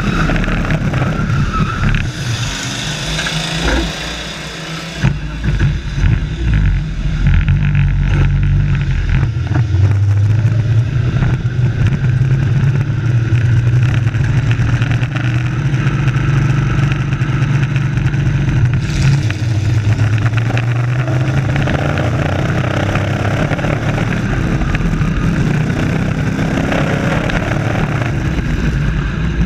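Race truck engines running, a loud steady engine note that wavers a little in pitch.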